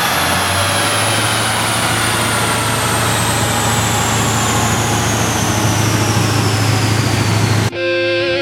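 Twin-turbocharged 2012 Ford Mustang GT's 5.0-litre V8 settling to idle on a chassis dyno just after a full pull, with a thin high whine falling slowly as things wind down. Near the end the engine sound cuts off suddenly into a few held musical tones.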